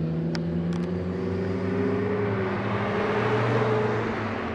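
Sports car engine running steadily, its pitch creeping up slightly, with a rush of road noise that swells and then eases near the end. Two or three light clicks in the first second.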